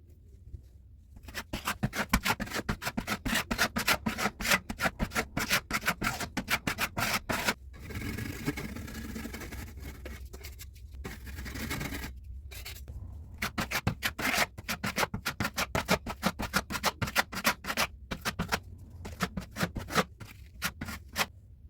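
Rapid back-and-forth scraping strokes of a hand tool on drywall, several a second. About eight seconds in they turn into a steadier continuous scrape for a few seconds, broken by a short pause, and then the quick strokes resume.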